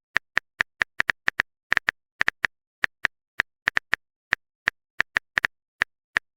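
Phone keyboard typing clicks: a stream of short, sharp taps at an uneven pace, about three to five a second.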